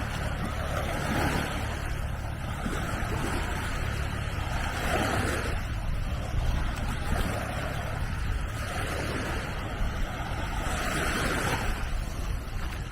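Small sea waves washing onto a sand beach, swelling and fading three times, over a steady low rumble.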